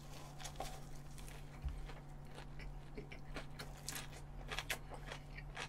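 A person chewing a mouthful of cooked Iberico pork in a green leaf wrap: faint, irregular mouth clicks and soft crunches.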